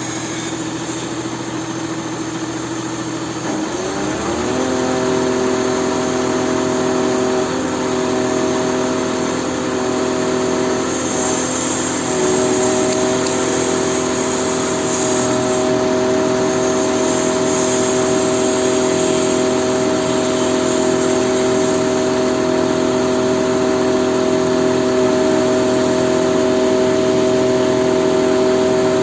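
Engine running steadily. About four seconds in its speed rises quickly to a higher, steady pitch and holds there.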